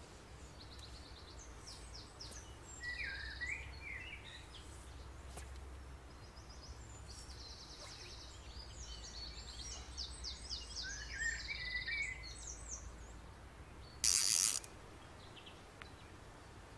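Songbirds singing, a run of short chirps and trills, over a faint low rumble. About two seconds before the end there is one short, loud rushing hiss.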